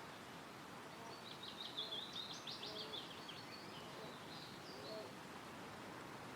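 Wind rustling steadily through forest trees, with a songbird singing a quick run of high chirping notes starting about a second in and lasting around two seconds, followed by a few softer high notes near the end. Faint, short low calls sound now and then in the background.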